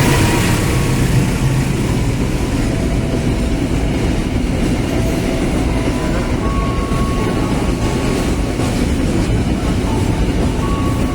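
Coal freight train rolling past at close range: a steady, loud rumble and clatter of wagons on the rails, with a few brief thin squeals from the wheels now and then.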